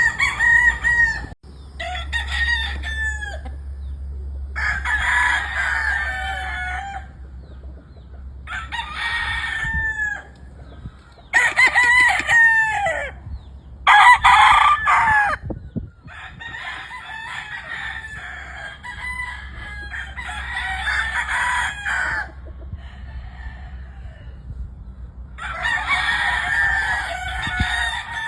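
Several gamefowl roosters crowing one after another, about ten crows in all, some overlapping and some fainter from farther off.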